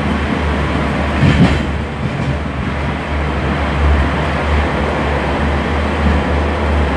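Inside a Class 142 Pacer diesel railbus on the move: a steady, pulsing low hum from the underfloor diesel engine over the noise of the wheels on the rails. There is a brief louder burst about one and a half seconds in.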